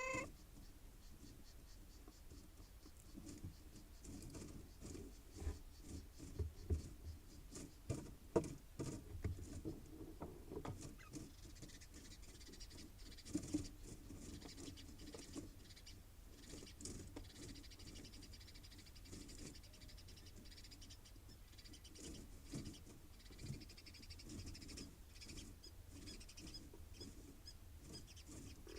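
Mynas moving about inside a nest box and working nesting material: irregular taps, scratches and rustling, with a few louder knocks in the first ten seconds.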